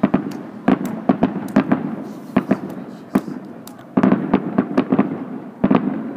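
Aerial fireworks shells bursting: many sharp bangs and pops coming in quick clusters, a thick run about a second in and another around four seconds in.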